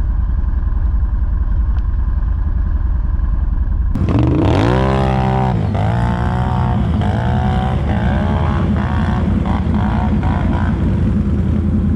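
ATV engine running with a steady low rumble; about four seconds in the sound changes abruptly and the engine revs up and down repeatedly, about one rev a second, before settling into steadier running near the end.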